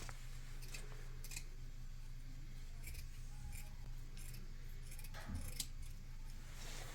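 A series of short, sharp snipping clicks at uneven intervals, over a faint steady low hum.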